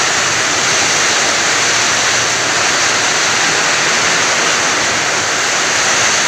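Heavy rain in a windstorm, a loud, steady rush of noise with no breaks.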